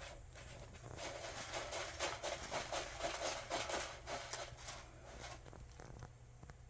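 Cat digging in its litter: a run of quick, scratchy strokes starting about a second in and dying away after about five seconds.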